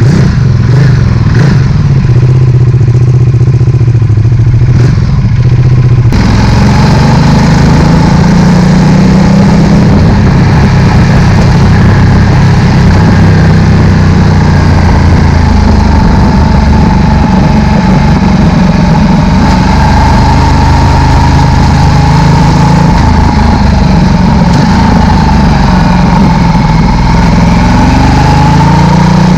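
Ducati Multistrada 1260's V-twin engine running through a Termignoni slip-on exhaust, steady at low revs, with the sound turning brighter about six seconds in and the pitch rising near the end.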